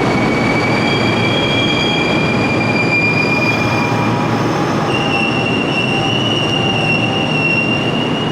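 Electric commuter train moving along the station platform: a loud, steady rumble of wheels on rail with high-pitched wheel squeal, several squealing tones held for seconds at a time, a new, stronger one coming in about five seconds in.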